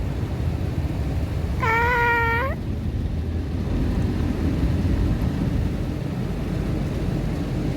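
Car wash running on the car, a steady low rumble and rush of water heard from inside the car. About two seconds in comes one drawn-out whining cry, lasting about a second and rising a little at its end.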